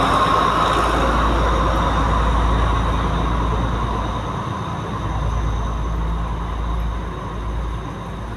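Diesel passenger train running: a steady rumble with rail noise, easing down and growing quieter over the second half.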